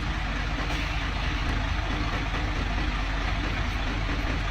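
Heavy diesel earthmoving engine running steadily, a low even rumble.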